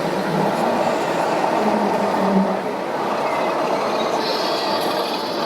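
Electric motors and gears of scale RC construction models (trucks and a hydraulic excavator) running steadily, a continuous mechanical whirring with faint whining tones.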